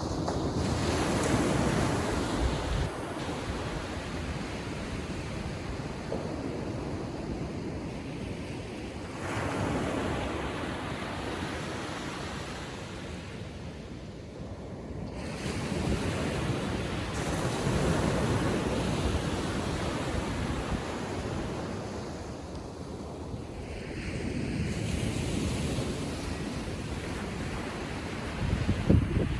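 Small ocean waves breaking and washing up a sandy beach on a calm sea, the surf swelling and easing about every seven or eight seconds. Wind rumbles on the microphone, with a stronger gust near the end.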